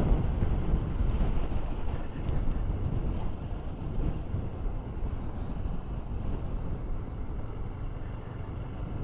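A KTM 390 Duke's single-cylinder engine running while riding, under a steady low rumble of wind buffeting on the rider's microphone, easing slightly toward the end.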